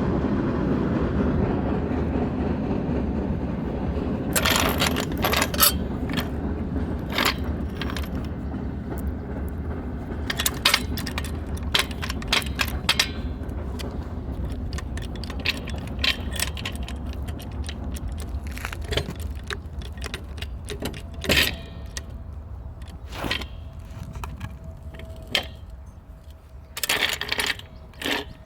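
A passing train's low rumble slowly fading away, overlaid by scattered metallic clinks and clanks of tools and parts being handled during a shock absorber change, some in short clusters of several quick clinks.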